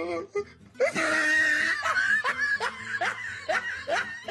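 Human laughter: a loud laugh starting about a second in, then a run of short rising 'ha' sounds, about three a second.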